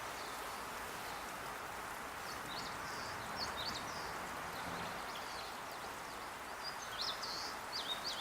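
Small birds chirping in quick, high, sharp notes, in a cluster a few seconds in and again near the end, over a steady outdoor hiss.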